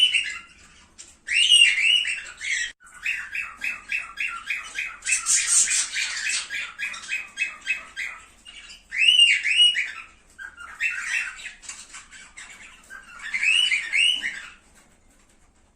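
Cockatiels calling: repeated rising-and-falling calls, with a fast run of short chirps at about five a second in the first half.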